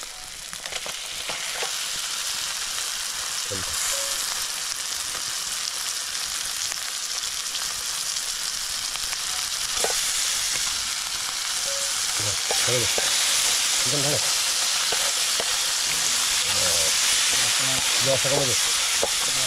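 Onion-tomato masala frying and sizzling in a metal kadai over a wood fire, stirred with a wooden spatula. About halfway through, raw chicken pieces go into the hot masala and the sizzling grows louder.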